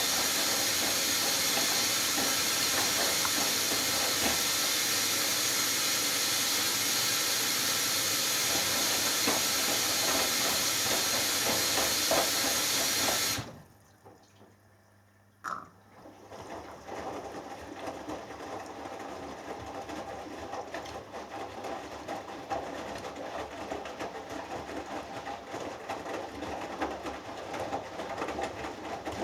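Hoover Dynamic Next washing machine filling for its last rinse: water rushes in through the inlet valve with a loud, steady hiss that cuts off sharply about halfway through. After a brief hush and a single click, the drum turns over quietly with the sloshing of the wet load.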